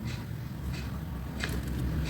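A few faint light ticks and rustles of paper and crafting tools being handled, over a low steady background rumble.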